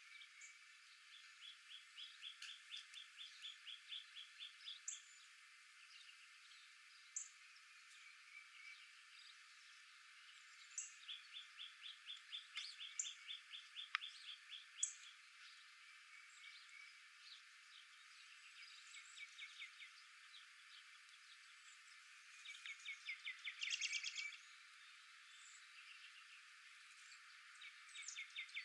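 Faint wild animal calls: several trills of rapid, evenly repeated notes, each lasting two to three seconds, with short high chirps scattered between them over a soft outdoor hiss.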